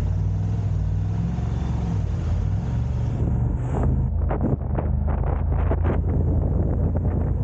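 Car driving, its engine and road noise a steady low rumble. From about halfway in, irregular short crackles of wind buffeting the microphone.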